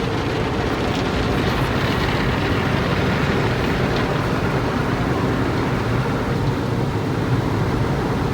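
Steady rumble and rushing of automatic car wash machinery running, heard from inside a car going through the wash.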